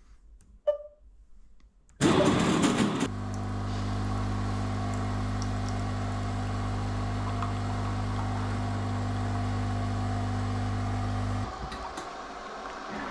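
An engine starts with a loud burst about two seconds in, then runs with a steady low hum for about eight seconds and cuts off suddenly near the end.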